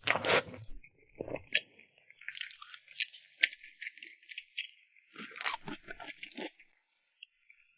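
Close-miked mouth sounds of eating cream cake. A bite right at the start is the loudest sound, followed by chewing with crackly clicks, and a second round of biting and chewing about five seconds in.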